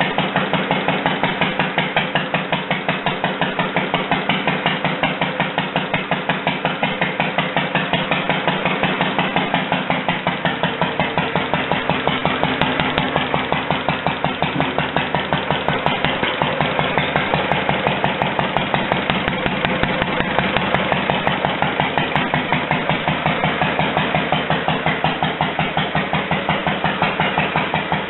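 International Harvester LA single-cylinder stationary engine, rebuilt with a newly cast cylinder head, running at a steady speed with an even exhaust beat.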